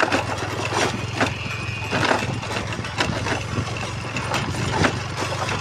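Motorcycle engine running steadily at low revs, with sharp knocks and clatters at irregular intervals.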